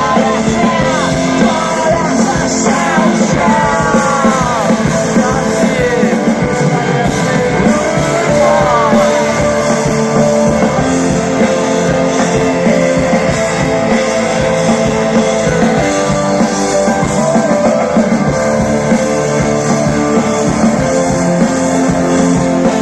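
Rock band playing live through a concert PA, loud and steady, with a melody line gliding up and down in the first half.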